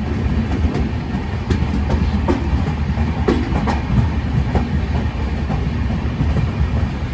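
Janshatabdi Express passenger train running along the track: a steady low rumble of the moving coach with irregular clicks and knocks of wheels over the rails.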